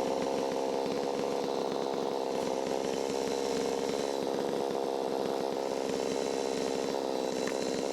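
Holzfforma 660 clone two-stroke chainsaw running at a steady, even engine speed.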